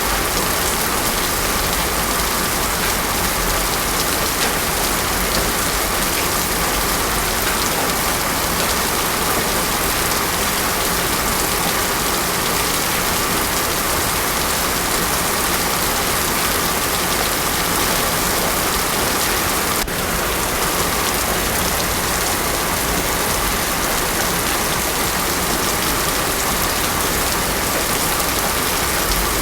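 Heavy rain pouring steadily onto a paved road: a dense, even hiss of water with no thunder.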